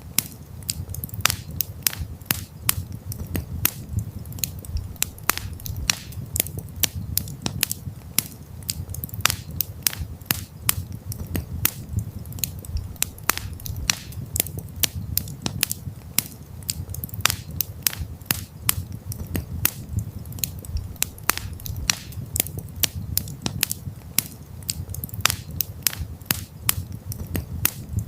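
Wood campfire burning: a steady low rumble of flame with dense, irregular crackles and pops, several a second.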